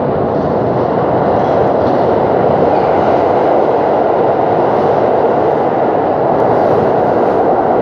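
New York City subway train running through the station, a loud steady rumble that builds over the first couple of seconds and then holds.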